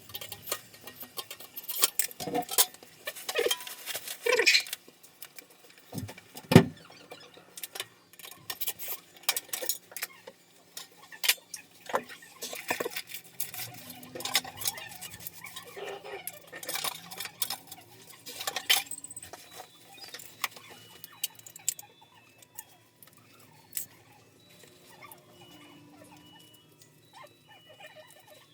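Irregular clicks, knocks and rattles of tools and small hard parts being handled during plumbing work, busiest in the first twenty seconds and sparser near the end.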